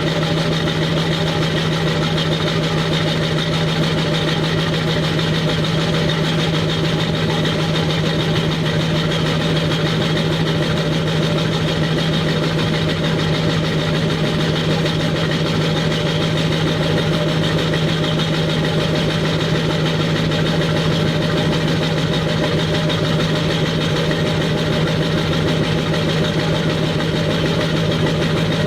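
LB7 Duramax 6.6-litre V8 turbodiesel in a 2002 Chevy 2500HD idling steadily, warming up after a −15°F cold start. The exhaust runs with the resonator deleted.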